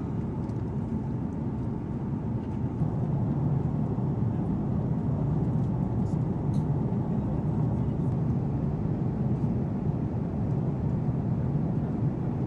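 Steady low rumble of a jet aircraft in flight, growing slightly louder about three seconds in.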